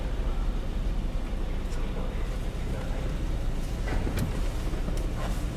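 Toyota AE86 engine idling steadily, a low rumble heard inside the cabin, with a few faint clicks about four seconds in.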